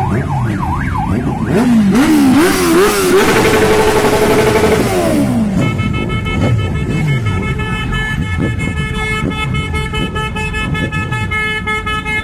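Vehicle siren winding up with a wavering rise, holding a steady tone, then winding down, followed by a long held multi-tone horn blast, over the rumble of engines.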